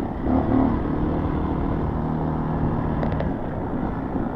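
Small single-cylinder four-stroke dual-sport motorcycle engine (Honda CRF) idling steadily, with a few light clicks about three seconds in.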